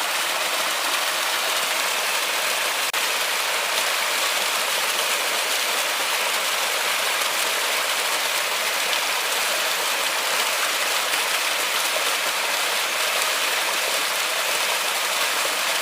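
River water flowing steadily, an even rushing hiss with no change in level.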